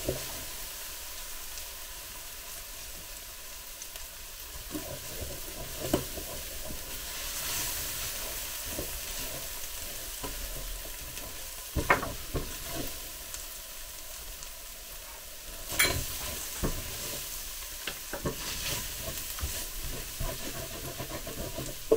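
Bacon, onion and garlic sizzling in the frying pot of a Ninja Speedi while being stirred, a steady hiss with a few sharp knocks of the utensil on the pot, the loudest about halfway through and again a few seconds later.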